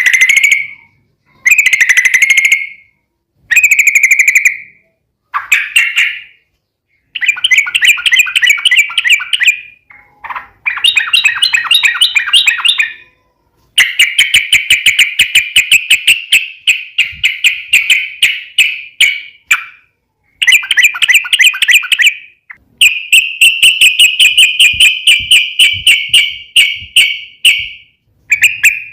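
Yellow-vented bulbul (trucuk) singing: loud bubbling phrases of rapid repeated notes, short at first and then long rolling trills of several seconds each, with brief pauses between.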